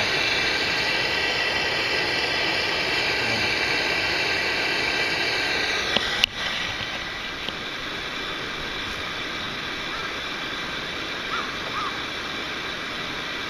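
Steady rushing of a mountain stream. A click comes about six seconds in, after which the rush is somewhat quieter.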